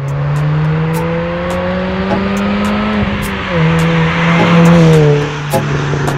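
Mini Cooper S R53's supercharged 1.6-litre four-cylinder accelerating, its note rising, dipping briefly about three and a half seconds in, then rising again and dropping away as the car passes about five seconds in, with tyres hissing on the wet road.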